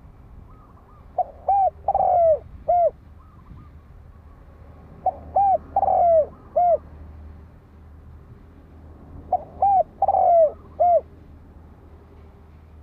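Spotted dove cooing: three phrases of its song, each a few short rising-and-falling coos and one longer, falling coo, repeated about every four seconds.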